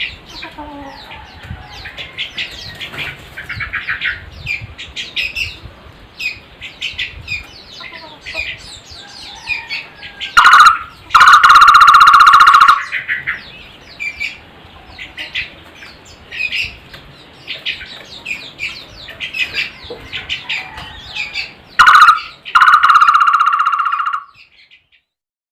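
Birds calling: a busy stream of quick, high chirps and trills, broken twice by a very loud call of steady pitch lasting one to two seconds, about ten seconds in and again near the end.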